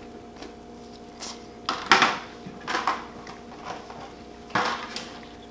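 Cutlery clinking and scraping against a takeout food container as food is dug into: a few sharp knocks, the loudest about two seconds in and another near the end.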